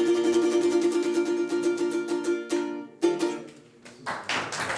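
Closing bars of a song on a strummed acoustic string instrument: fast, even strumming of one chord, then a single final chord about three seconds in that rings out. Applause starts near the end.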